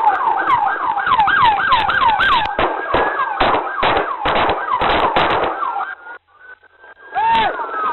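Police car siren on a fast yelp, sweeping up and down about three to four times a second. In the middle it is broken by a run of loud, sharp knocks. The siren cuts off about six seconds in, and a single short whoop sounds near the end.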